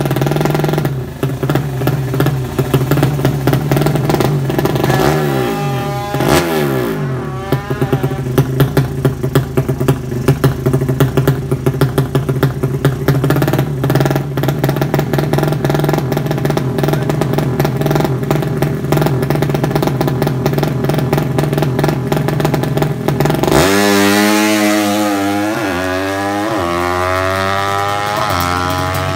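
Drag-race motorcycle engine running with a rough, crackling beat. It is blipped a few times early on, then revved up repeatedly in quick rising bursts near the end.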